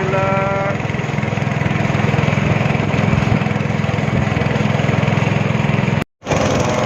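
Speedboat engine running steadily at speed, a loud even drone mixed with rushing water and wind noise. The sound cuts out for an instant about six seconds in.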